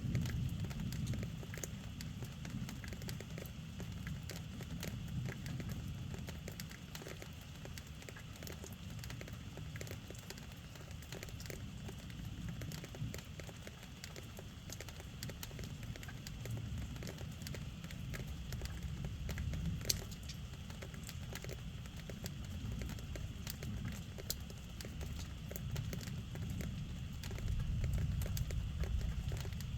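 Steady rain, its drops pattering and crackling on surfaces, over a low rumble that swells just after the start and again near the end.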